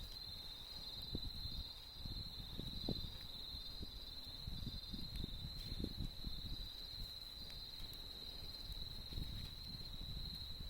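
Autumn insects trilling steadily at a high pitch, one of them in short repeated pulses, over the low, irregular crackling and popping of a campfire.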